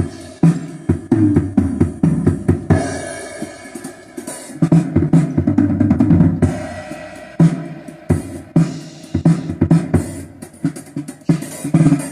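Music with a prominent drum kit, with steady kick and snare hits, played loud through a loudspeaker driven by a D900 power amplifier board under test.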